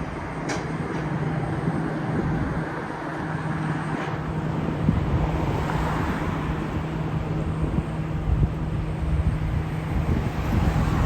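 Truck on the move: steady engine drone and road noise, with a low hum holding one pitch throughout and a couple of faint clicks.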